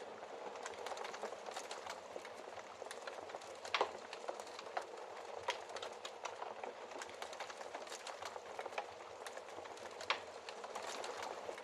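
Wood fire crackling in a fireplace: a steady hiss dotted with many small snaps, with a couple of louder pops, one about four seconds in and one near ten seconds.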